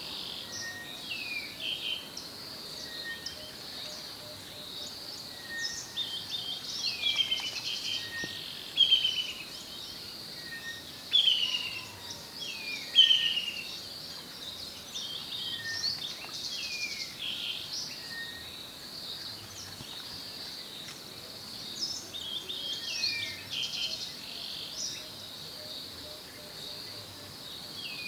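Wild birds calling over a steady high insect drone: many short, falling whistled notes, repeated throughout and loudest about 9, 11 and 13 seconds in, with a fainter short note recurring every couple of seconds.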